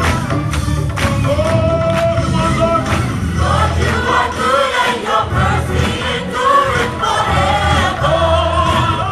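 Gospel choir singing held, wavering lines over a band with heavy bass and a steady beat.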